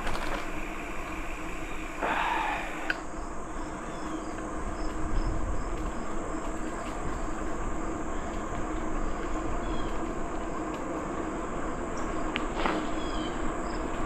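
Rural outdoor ambience with a steady high insect drone and a run of short, evenly spaced insect chirps. A few brief bird chirps come in over a steady low rumble.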